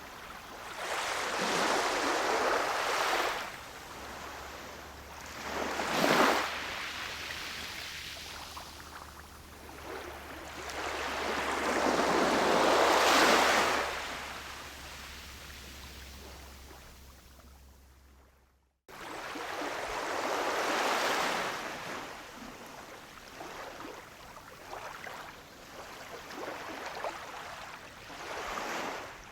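Ocean waves washing onto a shore, swelling and falling back every few seconds, with one sharper crash about six seconds in. About two-thirds of the way through the sound fades, cuts to silence for an instant, and the waves start again.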